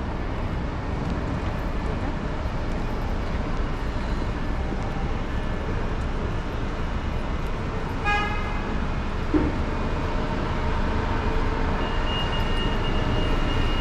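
Steady road traffic noise, with one short vehicle horn toot about eight seconds in. A steady high-pitched tone starts near the end.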